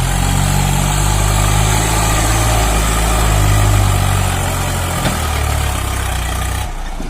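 Tractor diesel engine running, getting louder a few seconds in and then easing off. Near the end the sound changes abruptly and drops in level.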